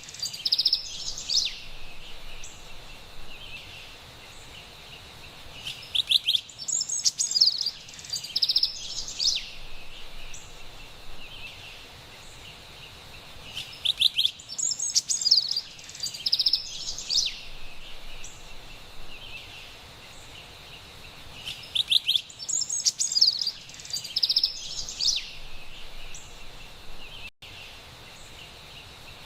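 Carolina wren singing loud bursts of rapid repeated phrases, one about every eight seconds, over a faint steady background hiss.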